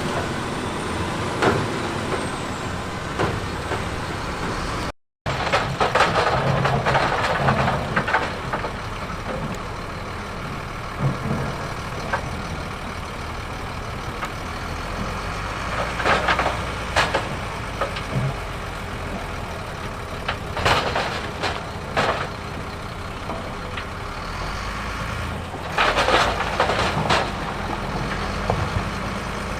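Heavy diesel earthmoving machinery running steadily, with repeated bursts of clattering and scraping. The sound drops out for a moment about five seconds in.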